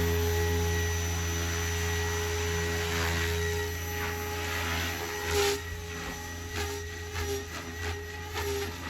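SAB Goblin Raw 700 electric RC helicopter in flight, its three-blade main rotor and motor giving a steady low drone that drops somewhat in level about halfway through, with a few short bumps after that. It is a quick tail-gain test flight in which the tail is hunting.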